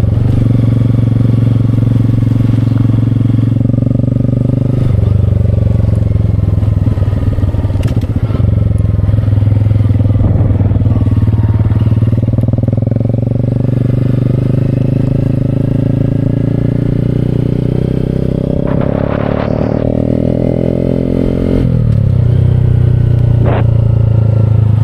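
Honda Grom's single-cylinder engine running through a Vance & Hines slip-on exhaust while being ridden. Its note holds steady, climbs from about three quarters of the way in, then drops suddenly at a gear shift.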